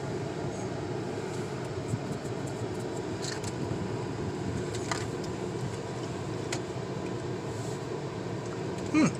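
Steady low background rumble with a few faint clicks, and a short murmured falling tone just before the end.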